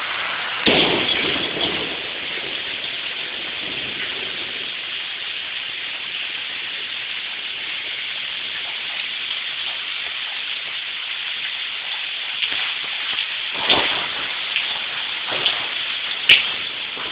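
Steady rain falling, with a few louder thumps and knocks of drops: one about a second in, and several near the end, including a sharp click.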